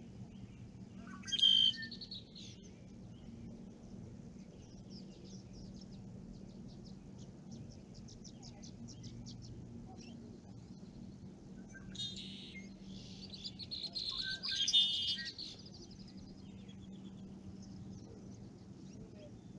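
Songbirds singing: a short loud phrase about a second in, a faint fast trill in the middle, then a longer, louder burst of song later on. A faint steady low hum sits underneath.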